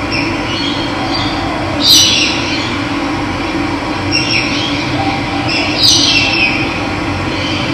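Steady rush of running water, with a bird calling over it three times, each call sweeping downward in pitch; the first and last calls are the loudest.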